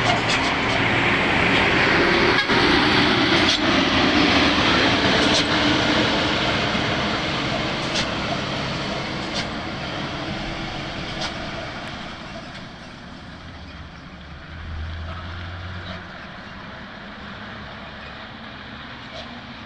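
Diesel dump truck engine working hard up a steep incline, loud at first and fading steadily as the truck moves away.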